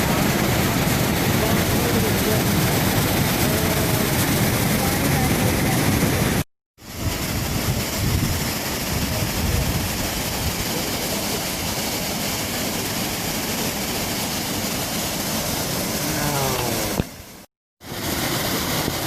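Steady rush of falling water from a waterfall, a continuous loud roar, broken twice by a sudden cut to silence for about a quarter to half a second.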